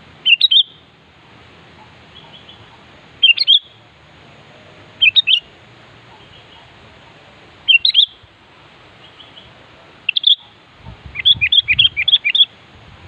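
Sooty-headed bulbul singing: short phrases of a few quick, high whistled notes every two to three seconds, then a longer run of notes near the end.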